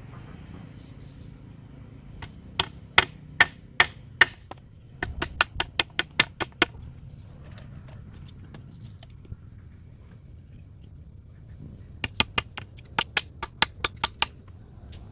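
Sharp, repeated knocks of a tool striking wood, in three runs: five evenly spaced strikes, then a quicker run of about ten, then a longer run near the end. Birds chirp faintly in the background.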